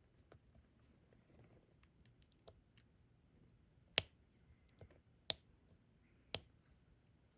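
Faint, sharp clicks and taps of a diamond-painting drill pen picking up and pressing resin drills onto the canvas. Three louder clicks come in the second half, about a second apart.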